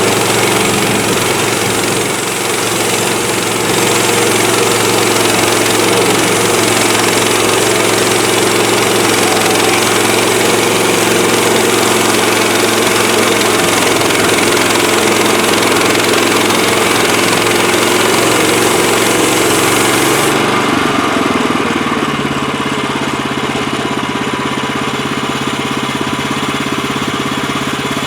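HM130MAX portable bandsaw sawmill running, its engine going steadily along with a high hiss. About 20 seconds in, the hiss drops away and the engine settles to a lower, steadier note.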